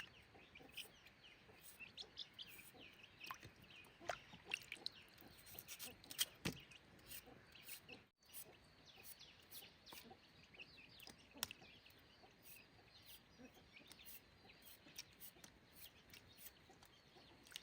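Faint chirping and clucking of birds, with scattered sharp clicks and knocks; the sound drops out briefly about eight seconds in.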